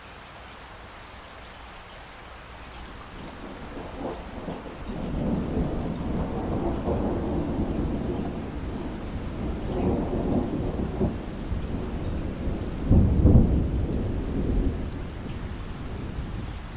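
Thunder rumbling over steady rain. The low rumble builds a few seconds in, swells several times and is loudest about thirteen seconds in, then eases back.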